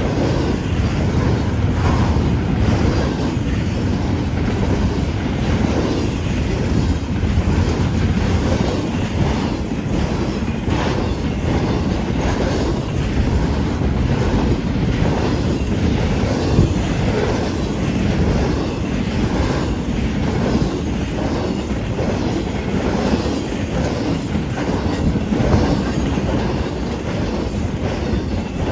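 Train rolling past at trackside: a steady rumble of railcars, with wheels clicking over the rail joints.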